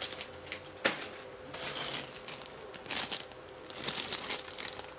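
Plastic packaging crinkling as model-kit runners are handled, in irregular rustling stretches with a sharp click about a second in.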